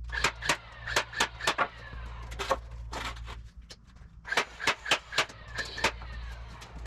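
Hammer driving nails into 2x4 lumber: quick runs of sharp strikes, each with a short metallic ring, in two bursts with a pause of about a second and a half between them. A steady low hum runs underneath.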